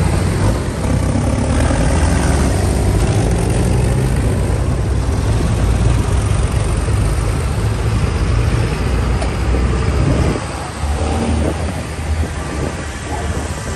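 Tractor engine running loudly and steadily; the sound eases off about ten seconds in.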